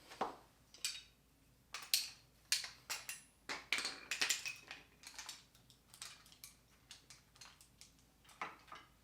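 Metal hand tools clinking and clattering as they are handled and set down, a string of uneven knocks with a short metallic ring, busiest in the middle.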